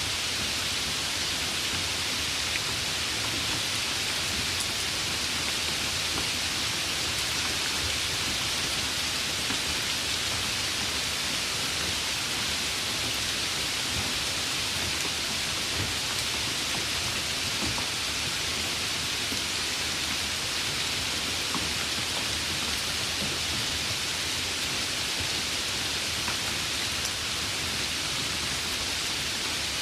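Steady, even rain hiss with no breaks or separate bursts.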